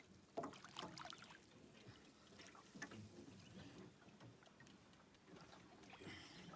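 Faint water trickling and sloshing around a small boat's hull as it is pushed to free it from a snag, with a few light knocks in the first second.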